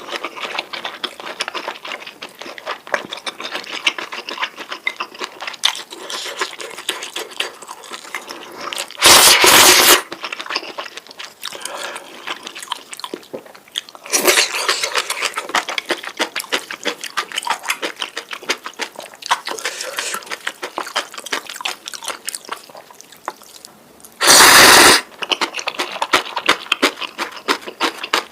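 Close-miked eating of noodles: wet chewing and mouth clicks go on throughout. Two loud slurps, each about a second long, come about nine seconds in and again near the end.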